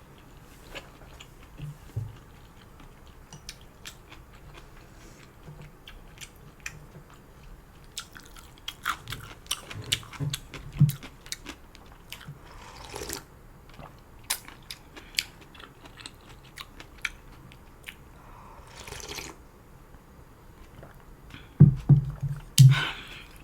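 A person eating janchi guksu noodle soup: steady wet chewing with scattered small clicks and crunches, two short slurps partway through, and a run of louder chewing near the end.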